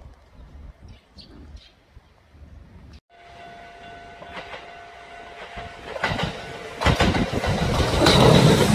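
Kintetsu electric train approaching, getting louder from about six seconds in and loud near the end, with wheels clattering over the rail joints and a steady high whine.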